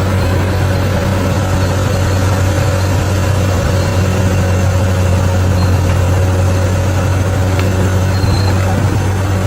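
Bulldozer's diesel engine running steadily with a constant low drone and no change in pitch.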